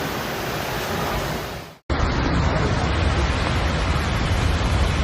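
Steady rushing noise of floodwater and heavy rain. It fades out about two seconds in and comes back louder and more rumbling after a cut.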